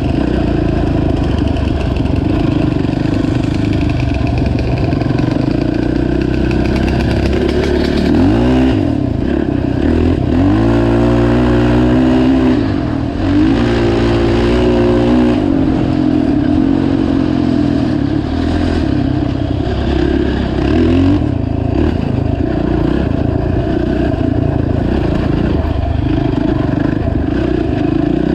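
Honda TRX450 ATV's single-cylinder four-stroke engine running under way, revving up and down repeatedly, with the pitch swinging up and back several times in the middle.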